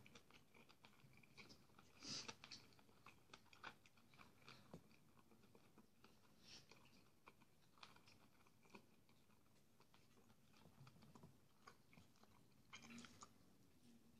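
Faint, close chewing and mouth sounds of a person eating fried sausage with porridge, with scattered small clicks and smacks against near silence.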